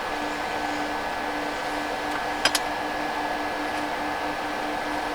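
Steady whir of a small fan motor with a constant hum, and two sharp clicks about two and a half seconds in.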